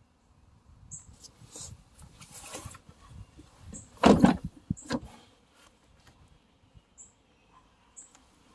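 Quiet handling and rustling noise with two sharp thumps about four and five seconds in, and faint short high chirps every second or so.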